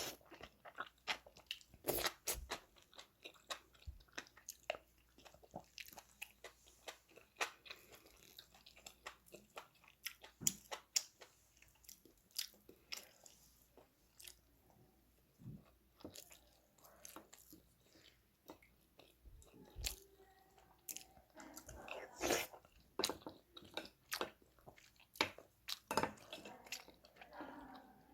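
A person eating a home-cooked meal: chewing and biting, with many short sharp clicks scattered throughout.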